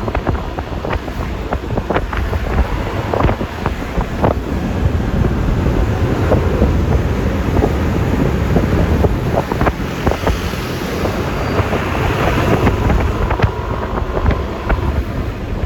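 Wind buffeting the microphone and road noise from a Yamaha Lexi LX 155 scooter ride: a steady low rumble with scattered sharp ticks and knocks.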